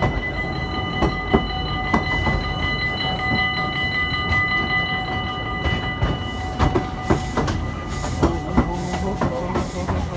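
A theme-park train running, heard from on board: a steady rumble with scattered sharp knocks and clatter from the carriages. A high, steady ringing tone sounds through the first six seconds or so, then fades.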